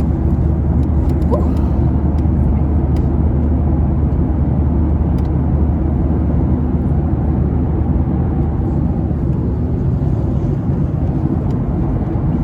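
Steady, loud low drone of an airliner cabin in flight: engine and airflow noise, with a few faint ticks.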